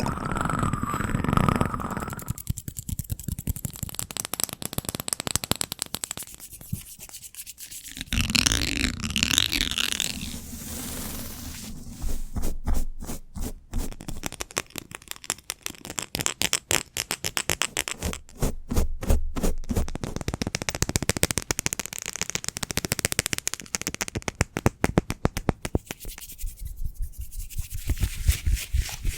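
Close-miked ASMR triggers: rapid tapping, scratching and rubbing on objects, many quick taps a second. The texture changes every few seconds.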